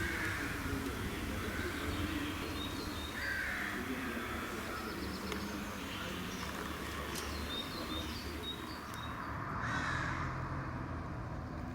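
Bird calls: three calls, at the start, about three seconds in and near the end, with faint high chirps, over a steady low rumble.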